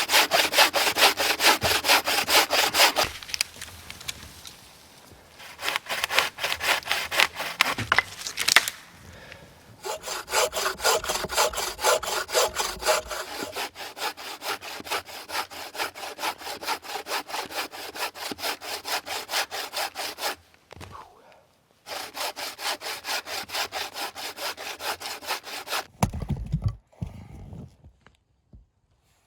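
Handmade hand saw cutting through a firewood log with quick, even back-and-forth strokes, in several runs broken by short pauses. A couple of low thumps near the end.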